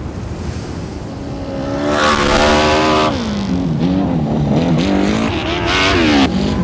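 1000cc dirt bike engine revving: the pitch holds high, drops about three seconds in, wavers up and down, then climbs quickly near the end and falls off again.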